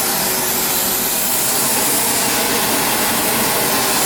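A blacksmith's forge running with a steady, loud rushing hiss that holds at an even level throughout.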